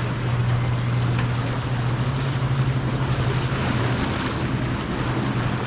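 A boat motor running steadily with a low hum, under wind and water noise.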